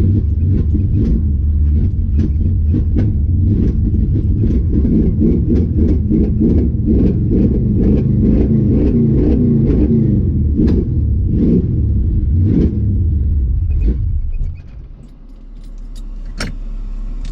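1970 Dodge Challenger with a 408 cubic inch stroker V8 on the move: a loud, dense engine and road rumble with many sharp clicks and knocks over it. It cuts off abruptly about fourteen and a half seconds in, leaving a low steady hum and a few clicks.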